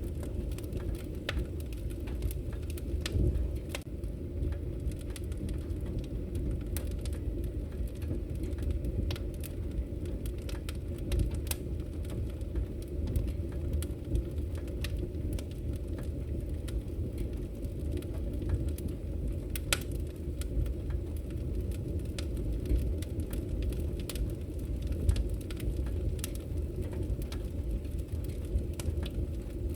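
Wood fire crackling in a fireplace: a steady low rumble of burning logs with frequent small sharp pops, one louder pop about two-thirds of the way through.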